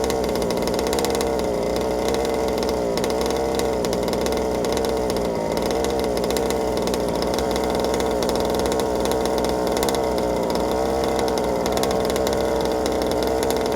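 Small 32cc two-stroke gas engine of a 1/5-scale RC car, exhausting through a DDM Side Dominator pipe, running steadily at moderate speed with its pitch wavering slightly up and down, as it is gently run in during break-in.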